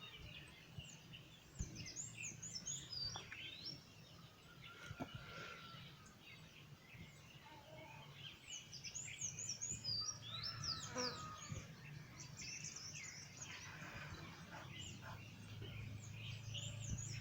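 Several birds chirping with many quick, high, rising and falling notes, over a faint steady low hum and a few faint clicks.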